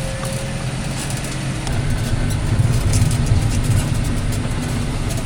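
A vehicle's engine running steadily, its hum growing a little louder about two seconds in.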